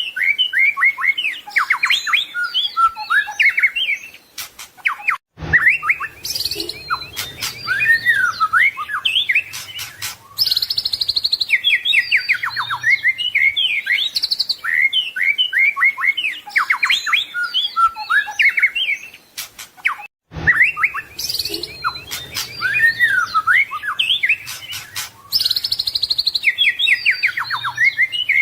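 White-rumped shama (murai batu) singing a loud, varied song of quick whistles, rapid trills and harsh chattering phrases. The same passage repeats about every fifteen seconds, with a brief break twice.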